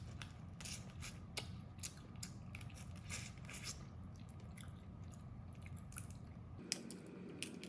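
Close-up eating sounds of a person gnawing on crab: the shell is bitten and cracked between the teeth and the meat chewed, giving irregular small crunches and clicks.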